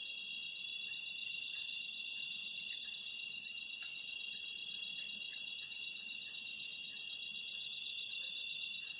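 Dense forest insect chorus: several high-pitched steady trills layered together, with a faint rapid pulsing running through the highest one.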